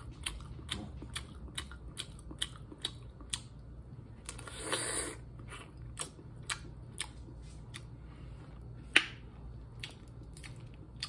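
Close-up chewing of boiled lobster, with frequent short wet mouth clicks and smacks about once or twice a second, and a short noisy rush about halfway through. A louder sharp snap comes near the end as the lobster shell is pulled apart by hand.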